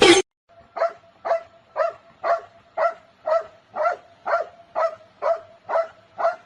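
A dog barking over and over in an even rhythm, about two barks a second, a dozen times in a row.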